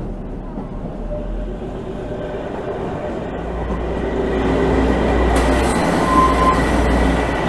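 Narrow-gauge passenger train running, its rumble rising from about three seconds in as the coach enters a tunnel and loudest inside it. A thin, steady high squeal, typical of wheels on a curve, runs over the running noise.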